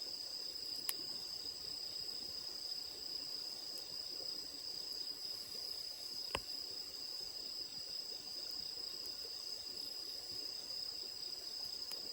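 Insects chirring steadily in a continuous high tone over a wood campfire, which gives two sharp pops, about a second in and louder about six seconds in.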